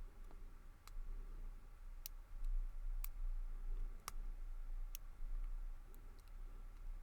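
Lock pick and tension wrench working inside a Lockwood 334B45 brass padlock's pin-tumbler keyway: sharp, separate clicks about once a second as the pins are picked. A low steady hum sits underneath.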